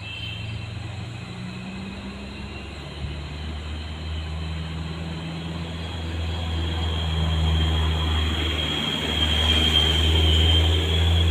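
Heavy truck's diesel engine running under load, growing steadily louder, with a high whine that builds near the end. The low engine note breaks off briefly about nine seconds in, then comes back stronger.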